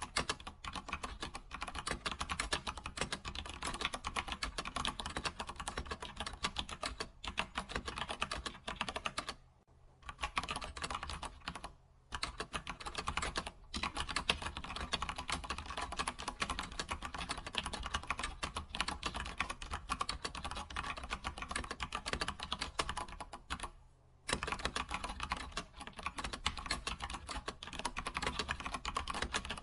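Computer keyboard typing: a steady stream of rapid keystrokes, broken by a few short pauses, the longest about 24 seconds in.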